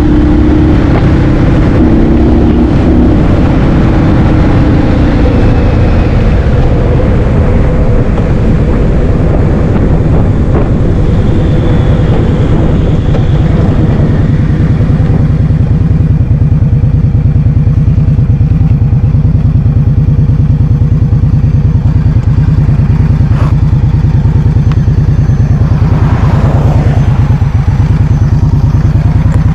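Wind buffeting the microphone of a rider on a moving motor scooter: a loud, steady low rumble, with the scooter's engine running underneath.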